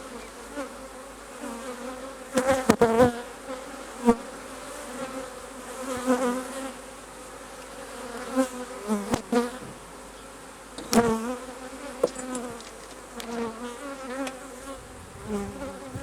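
Honey bees buzzing around an open hive, with individual bees flying close past and their pitch wavering as they go by. A few sharp knocks cut through the buzz, the loudest near the start and about two-thirds of the way in.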